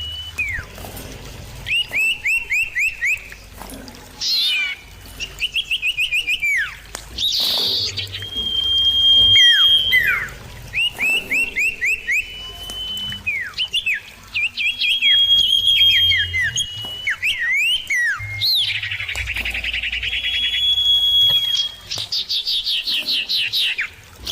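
Common iora (cipoh) song: runs of short, down-slurred whistles at about five a second, alternating with long, steady, high whistles, and a rapid buzzy trill near the end.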